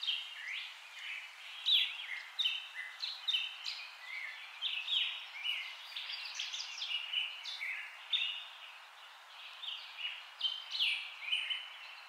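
Small birds chirping busily: a steady stream of short, high chirps, many sliding downward, several a second, over a faint steady hiss.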